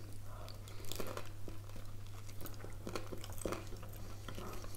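Close-up chewing and biting of sprat-and-pickle sandwiches on toasted bread: a run of small, irregular crisp crunches and wet mouth sounds, over a faint steady low hum.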